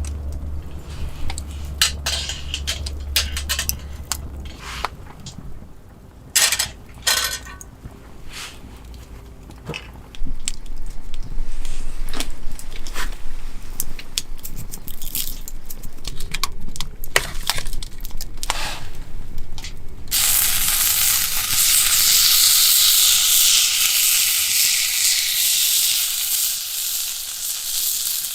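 Cookware clinking and knocking, then about twenty seconds in a sudden loud sizzle as beef goes into a hot pan and keeps frying steadily.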